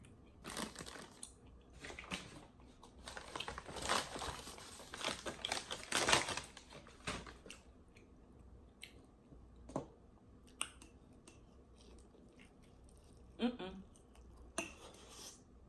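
Close-miked chewing and biting of a crispy fried chicken wing, with dense crunching for the first seven seconds or so, then scattered wet mouth clicks.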